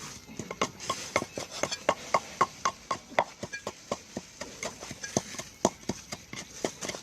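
Knife chopping rapidly on a cutting board: a steady run of sharp knocks, about four to five a second.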